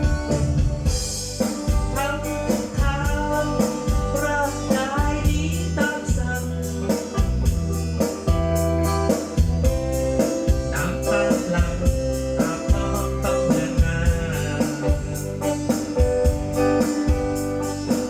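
A song with singing and organ-like keyboard over heavy bass and a steady beat, played through an outdoor PA system with subwoofer cabinets as a warm-up sound check.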